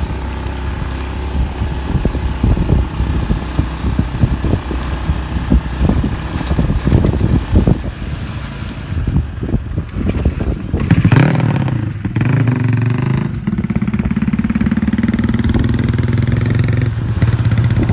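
Honda C70 four-stroke single bored out to 180cc, running unevenly at first, then revved up and back down quickly about eleven seconds in, and held at a steady, higher speed through the last few seconds.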